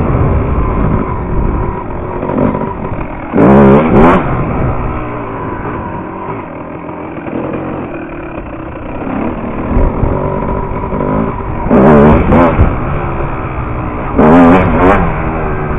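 Dirt bike engine revving hard in short bursts: three loud rising revs, about three seconds in, about twelve seconds in and near the end, with the engine running lower in between.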